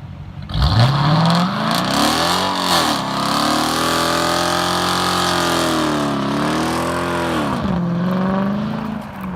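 Straight-piped 5.7 L Hemi V8 of a 2016 Dodge Charger R/T revving hard in a burnout. The revs shoot up suddenly about half a second in, then rise and fall in several swells with tyre noise hissing over them, and drop back near the end.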